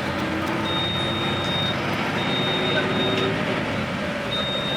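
Steady vehicle running noise, with a high-pitched electronic beep about a second long sounding twice and starting a third time near the end.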